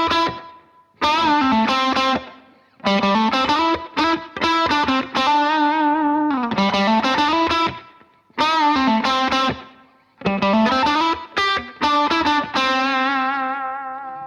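Background music: a solo electric guitar with effects plays slow phrases of held notes with vibrato and pitch bends, separated by short pauses.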